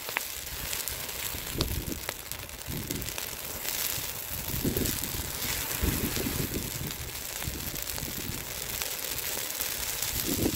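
Bonfire burning with a steady hiss and scattered sharp crackles and pops, with wind gusting on the microphone.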